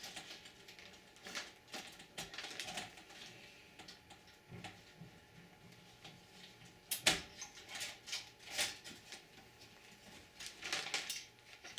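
Clicks, knocks and rattles of hands working inside a plastic computer case, unplugging the power supply's connectors from the motherboard. The sharpest knock comes about seven seconds in, with more clusters of clicks near the end.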